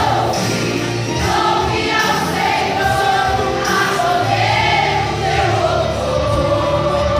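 Gospel hymn: a choir singing long held notes over a steady instrumental accompaniment with a bass line.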